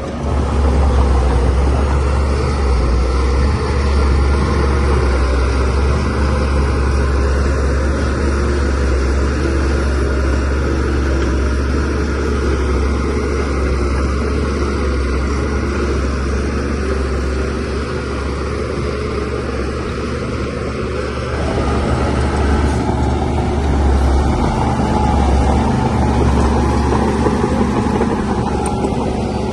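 DH17C3PRO bulldozer's diesel engine working steadily while pushing soil, a strong low drone with machine noise over it. The level swells slightly about a second in and again about three-quarters of the way through.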